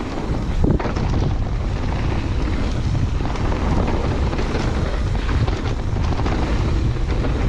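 Mountain bike riding a trail in strong wind: steady wind buffeting on the camera microphone over tyre rumble, with scattered small knocks and rattles from the bike.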